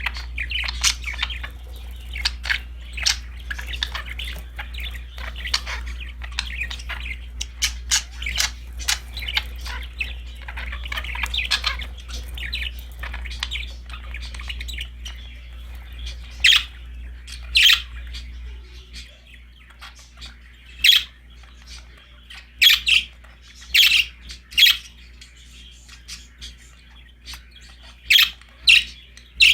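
Budgerigars chattering in a busy stream of quick chirps and warbles for the first half, then from about halfway on separate loud, sharp chirps come every second or so.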